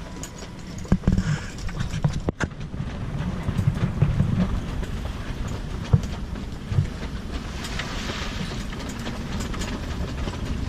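Storm wind rushing over the microphone in a steady low roar, with a few sharp knocks and clicks, the loudest about a second and two seconds in.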